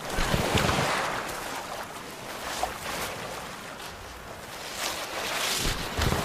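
Sea waves washing on a shore: a steady rush of surf that swells just after the start and again near the end.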